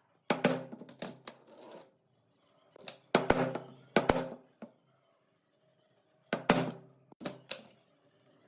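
Hand tools striking metal parts: sharp knocks in three irregular clusters, each hit ringing briefly like struck metal.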